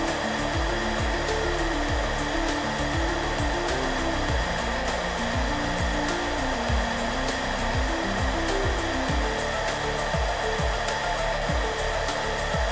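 Hair dryer blowing steadily, with soft background music of low melodic notes over it.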